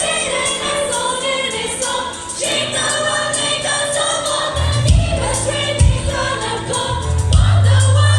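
Choir singing a worship song with backing music; a heavy bass line and a beat come in about halfway through.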